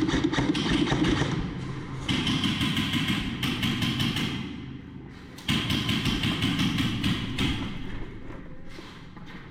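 Electric airsoft gun firing on full auto: a rapid buzzing stream of shots in three long bursts. The first burst stops under two seconds in, the second starts about two seconds in, and the third starts about five and a half seconds in.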